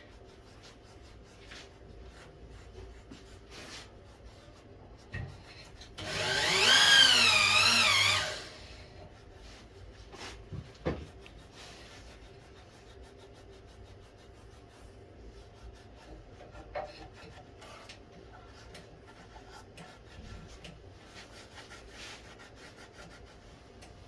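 Workshop handling of wood: scattered light taps and clicks. About a quarter of the way in comes a loud, squeaky rub lasting about two seconds, its pitch wavering up and down. A sharper knock follows a few seconds later.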